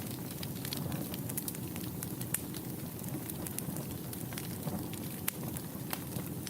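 Wood fire burning in a fireplace: a steady low rumble of the flames with irregular crackles and sharp pops of burning wood, a couple of them louder.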